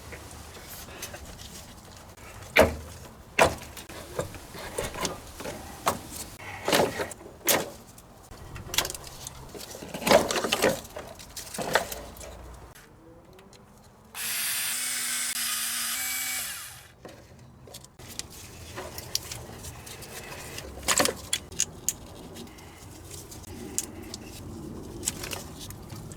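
Irregular clinks, knocks and scrapes of hand tools working on car underbody parts. About fourteen seconds in, a steady hiss starts abruptly and lasts about two and a half seconds.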